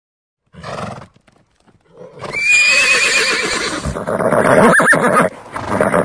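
A horse whinnying: one long neigh of about three seconds with a quavering, wavering pitch, starting about two seconds in. A short, fainter sound comes about half a second in.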